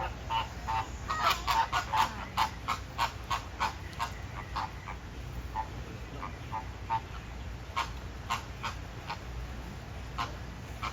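A flock of flamingos calling: many short calls in quick succession, thickest in the first four seconds, then more scattered.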